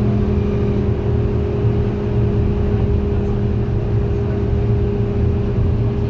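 MAN A91 bus diesel engine running steadily while the bus is under way, a low rumble with a steady hum on top. The loud radiator is heard throughout.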